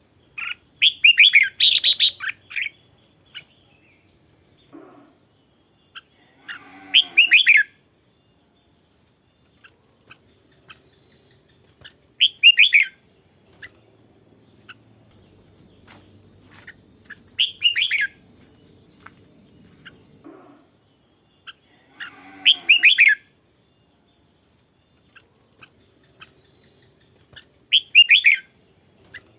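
Red-whiskered bulbul song: six short, bright warbled phrases repeating about every five seconds, with a faint steady high-pitched tone underneath.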